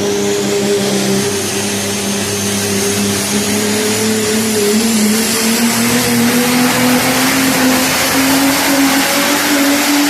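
Diesel pro stock 4x4 truck pulling the sled at full throttle, its engine note climbing slowly and steadily through the run, with a high steady whistle above the engine.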